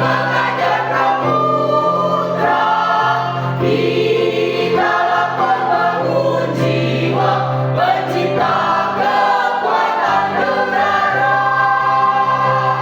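A choir singing a march in parts, with long held chords over a steady low note.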